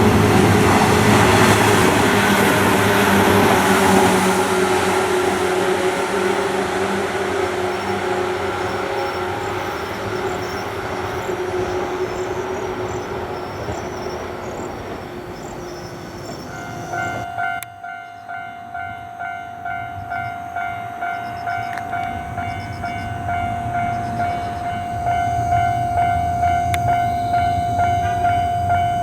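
A train running past on the Sanyo Main Line, its rail noise slowly fading. After an abrupt change about two-thirds of the way in, a steady ringing tone pulses about one and a half times a second.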